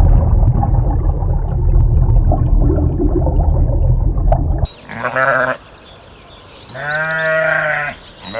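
Pig grunting in a dense, low, continuous stream that cuts off abruptly about halfway through. Then a sheep bleats twice, a short bleat followed by a longer, wavering one.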